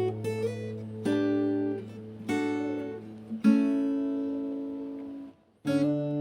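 Background music: acoustic guitar strumming slow, ringing chords, with a brief break near the end before the next chord.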